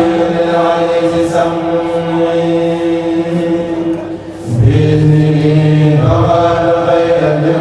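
A kourel group of men chanting a Mouride khassida in Arabic in chorus, holding long notes. There is a brief breath about four seconds in, then a new phrase begins.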